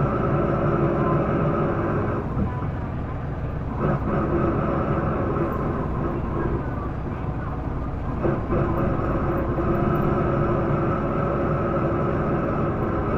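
Isuzu Erga PDG-LV234L2 city bus engine running under load, heard from inside the cabin, with a steady drone. The drone eases off about two seconds in and again near eight seconds, each time followed by a short knock as it picks up again. This bus is known for an abnormal noise that it did not make when new.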